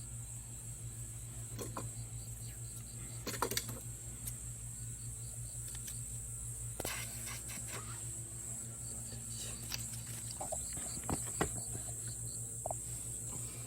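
A steady low hum with scattered light clicks and knocks, like objects being handled.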